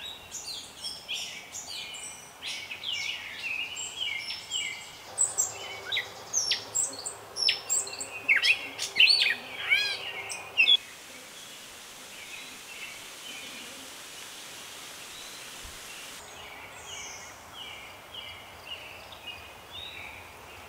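Wild birds singing and calling: many short chirps and whistles, busiest and loudest in the first half. About halfway through, the sound cuts to a quieter stretch of even hiss with a few fainter chirps.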